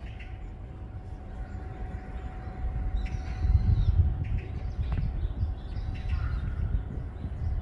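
Wind buffeting the microphone as a low rumble that swells about halfway through, with small birds chirping now and then.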